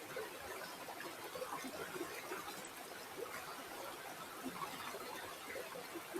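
River water flowing and trickling, a steady babble of many small irregular splashes.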